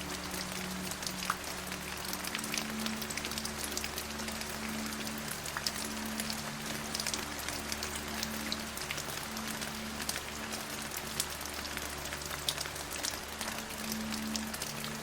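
Steady rain, a dense hiss with many individual drops ticking through it. Beneath it run soft, low sustained tones that shift pitch every second or two.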